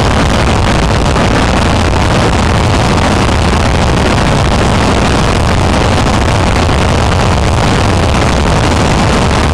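Steady vehicle engine and road noise from a moving car, loud and unbroken, with a strong low rumble.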